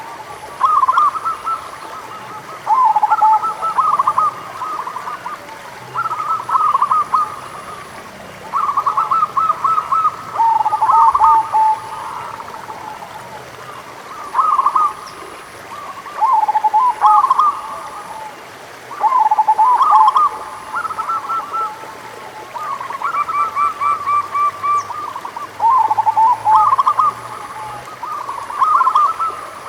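Zebra doves (perkutut) cooing: repeated phrases of quick rolling coo notes, each phrase a second or two long, coming every couple of seconds. Some phrases overlap at two different pitches.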